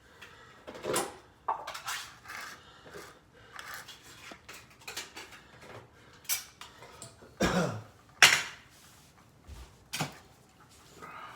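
Dishes and utensils clinking and knocking at irregular intervals, loudest at about eight seconds in.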